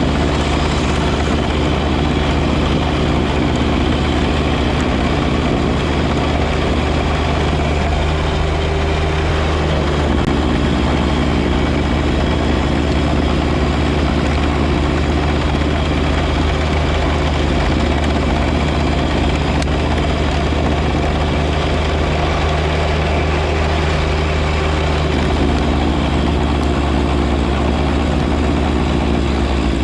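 John Deere 1025R compact tractor's three-cylinder diesel engine running steadily with its front snowblower.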